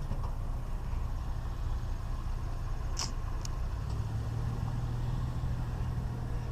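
A vehicle engine running steadily with a low drone, with a brief sharp click about three seconds in.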